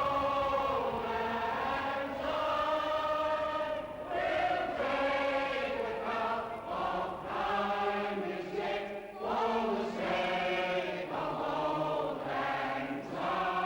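A large crowd singing together, many voices on long held notes.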